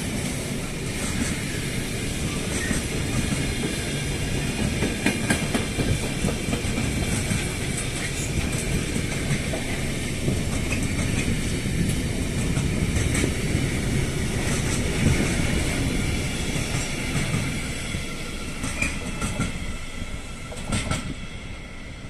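Wagons of a long intermodal freight train, loaded with containers and truck trailers, rolling past: a steady rumble of steel wheels on rail with repeated clicks as the wheels cross rail joints, easing off near the end.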